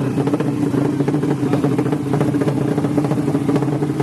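A 200cc motorcycle engine running at a steady speed, with an even pulsing note.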